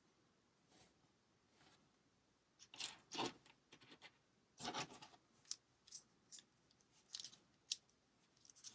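Plastic LEGO pieces being handled and pressed together: faint scattered clicks and short rustles, the loudest about three and five seconds in.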